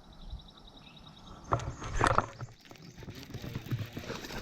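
A few short knocks and rattles of fishing gear being handled in a boat, the loudest about one and a half and two seconds in.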